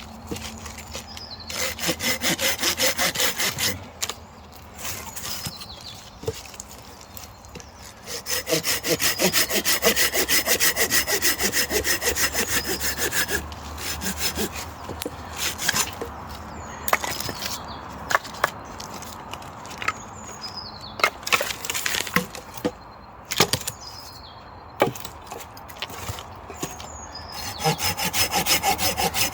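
Silky folding saw cutting wood in quick back-and-forth strokes, in three spells: near the start, through the first half, and again near the end. Between the spells come scattered sharp snaps and cracks of wood.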